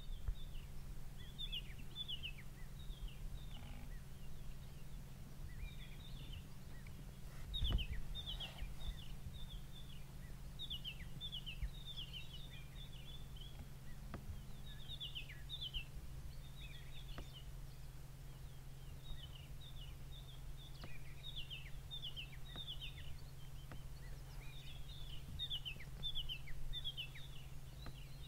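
Small birds calling over and over with short, high, falling chirps, over a steady low hum. A single soft thud about eight seconds in.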